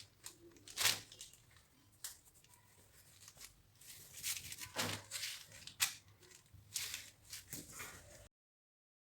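Packaging and cloth rustling and crinkling in irregular bursts as a parcel is unpacked, with a tearing sound or two; the sound cuts off suddenly near the end.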